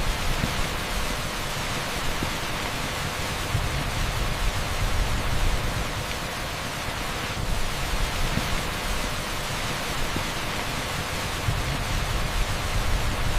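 Torrential rain pouring on an asphalt street: a dense, steady hiss with a low rumble underneath.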